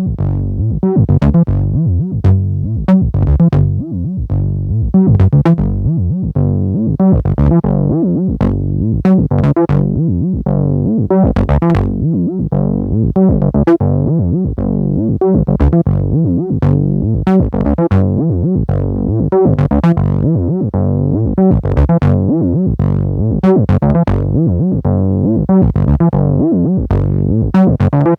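Geosync TB-Valhalla, a 303-style analogue synthesiser, playing a sequenced acid bassline: a rapid repeating run of short notes, each starting bright and quickly darkening as its filter envelope closes.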